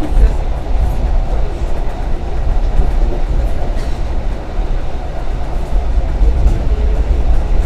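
Passenger train running, heard from inside the carriage: a steady, loud low rumble.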